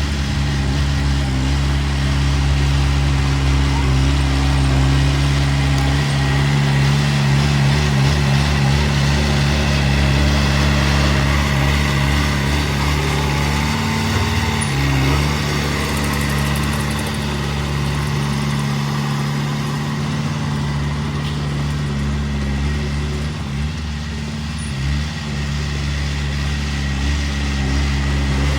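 Diesel engine of heavy construction machinery running steadily, with its engine speed dipping briefly about halfway through.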